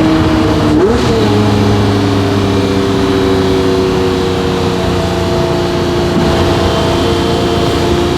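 Lamborghini Murcielago LP640's 6.5-litre V12 through a straight-piped Fi exhaust, running steadily; its pitch jumps up about a second in, then slowly falls.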